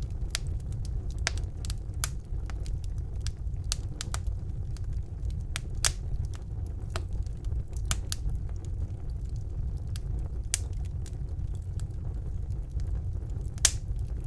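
Wood fire burning in a fireplace: a steady low rumble of the flames with irregular sharp crackles and pops, one louder pop near the end.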